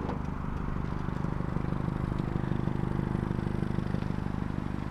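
A vehicle engine running steadily: a low, even hum that swells slightly in the middle.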